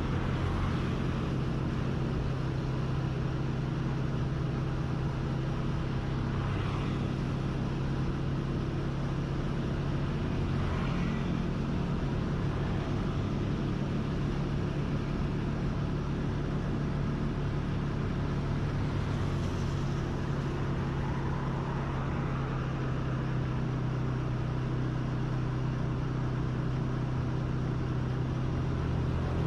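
A motor vehicle's engine running at a steady pace during a ride, with a constant low hum and road noise. A few faint, brief sounds from other traffic pass through.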